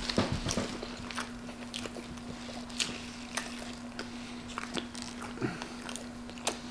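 Close-up chewing of a mouthful of nacho cheeseburger with corn chips in it: irregular wet mouth clicks and smacks, over a steady low hum.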